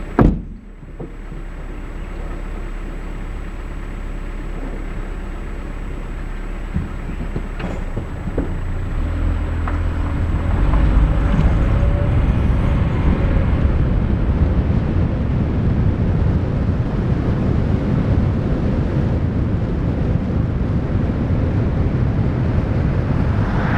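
A brief loud sharp sound right at the start, then a vehicle driving: a low rumble of road and engine noise that grows louder from about eight seconds in as it gathers speed, then holds steady.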